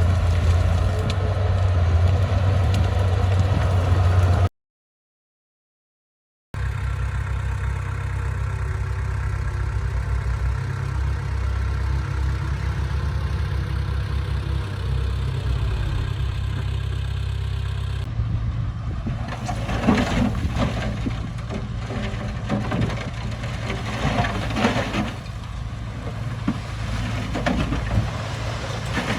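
Heavy diesel engine of a bulldozer running steadily. About four seconds in the sound cuts out completely for two seconds, then the engine returns. From about two-thirds of the way through, irregular metallic clanks and rattles sound over it.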